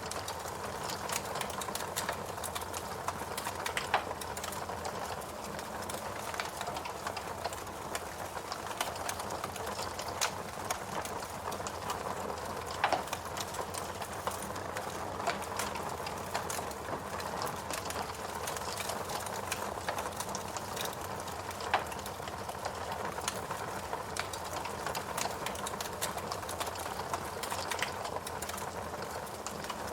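Wood fire burning in a fireplace: a steady hiss of flames with irregular crackles and sharper pops from the burning logs, a few louder pops standing out about 4, 13 and 22 seconds in.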